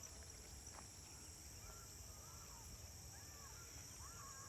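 Faint outdoor nature ambience: small birds chirping briefly, several short calls from about a second and a half in, over a steady high insect drone.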